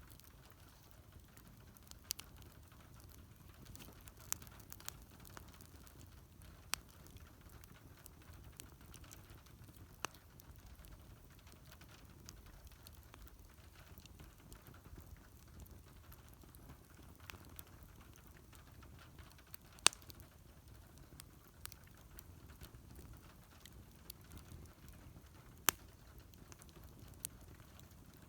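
Wood fire burning: a faint low rush with scattered sharp crackles and pops, a few seconds apart, the loudest about twenty seconds in.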